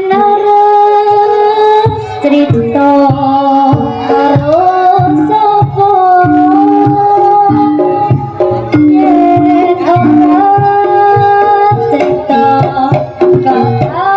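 Live jaranan ensemble music: a steady beat of hand drums under a loud, held melody line that moves between long sustained notes.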